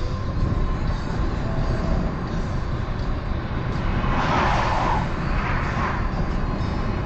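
Steady road and engine noise of a car driving on a highway, with a louder rushing swell about four to six seconds in.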